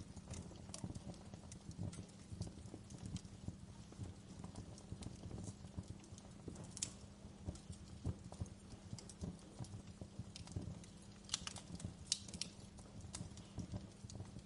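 Wood fire crackling in a fireplace: a steady low rumble of burning with irregular small crackles and sharper pops, a cluster of louder pops about eleven to twelve seconds in.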